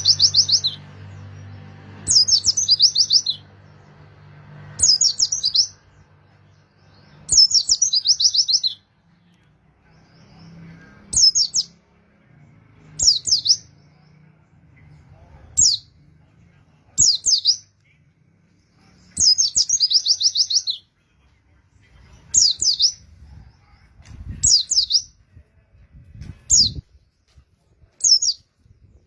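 A white-eye (pleci) singing short, high, rapid trilled phrases, one about every two seconds, used as a lure song to set other birds singing.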